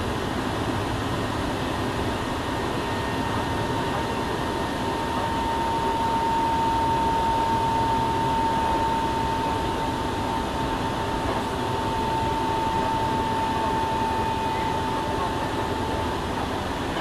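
Running sound heard inside a Hankyu 7000 series train car: a steady rumble from the wheels and track, with a thin high whine that sinks slightly in pitch and fades near the end.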